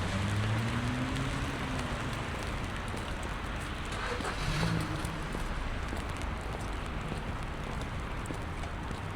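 Steady hiss of rain on wet pavement with a car's engine hum, its pitch rising over the first second or so, and a brief louder swell of passing vehicle noise about four and a half seconds in.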